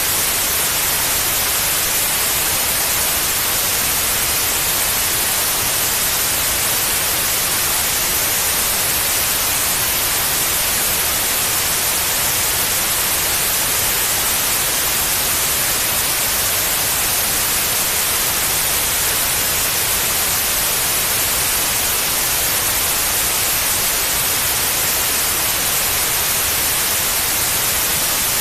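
Steady synthetic white noise: an even, unchanging hiss across the whole range, brightest in the high end, played as a soothing sound for a baby.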